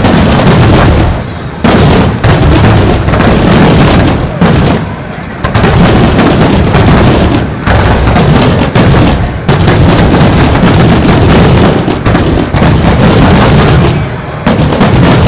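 Fireworks display finale: a rapid, near-continuous barrage of loud bangs and booms, overlapping so closely that they hardly separate, with brief lulls about a second and a half, five and fourteen seconds in. They are loud enough to overload the phone's microphone.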